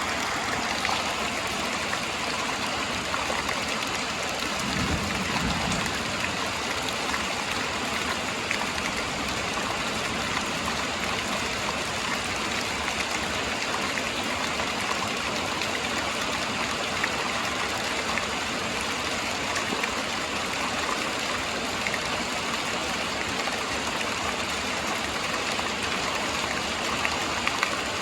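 Steady rain with fine scattered drop ticks, and a short low rumble of thunder about five seconds in.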